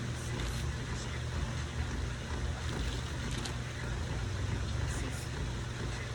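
An engine running steadily: a low, even hum with a rushing noise over it.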